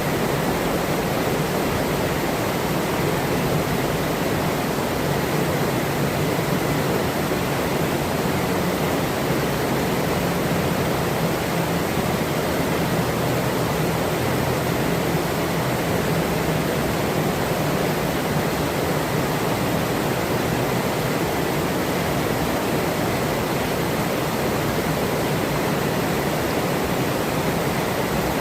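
Steady rushing of a forest river flowing over rocks: a continuous, even wash of water noise with no distinct splashes or breaks.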